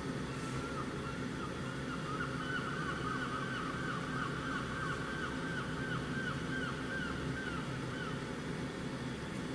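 A bird chirping in a long run of quick, wavering high notes that grows louder about two seconds in and stops near the end, over a steady low room hum.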